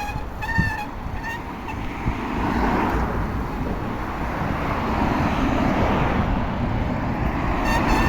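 Birds honking: three short honks in the first second, one more near the end. Steady wind and road noise run underneath.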